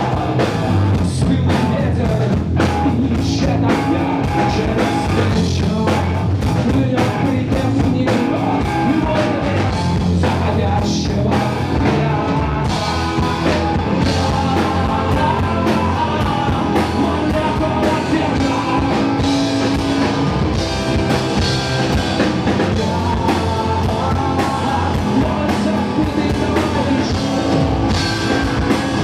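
Live rock band playing a song: a drum kit keeps a steady beat under electric guitars and singing. The drums stand out most in the first dozen seconds, then a melodic line comes forward.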